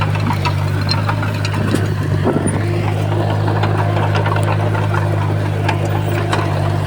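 Komatsu D51PX bulldozer's diesel engine running steadily, with scattered metallic clicks and clanks over the drone.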